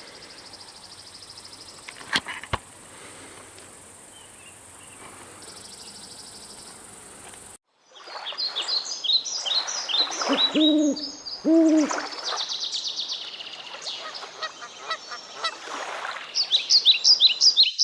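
Faint steady hiss with a couple of clicks, then, after a cut, birds calling: rows of quick high chirps, two low hooting notes about ten and eleven and a half seconds in, and a fresh run of high chirps near the end.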